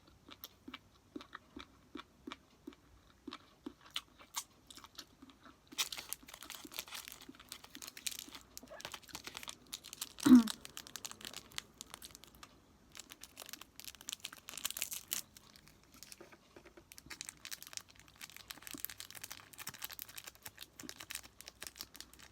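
A person chewing sushi close to the microphone, with a run of soft, wet mouth clicks. From about six seconds in, stretches of crinkling and rustling plastic packaging sound over the chewing. Near the middle there is one short hum.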